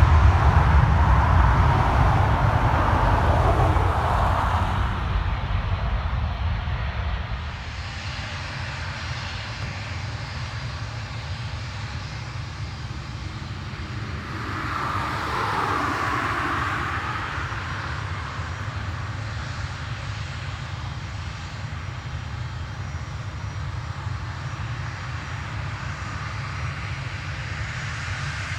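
Airliner engine noise: a loud rumble fades over the first few seconds. About halfway through, a second aircraft's noise swells and falls in pitch as it passes, then a steady distant engine hum remains.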